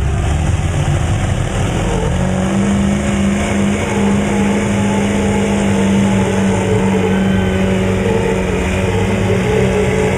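Truck engine revving and then held at high revs, a steady drone that settles from about two seconds in.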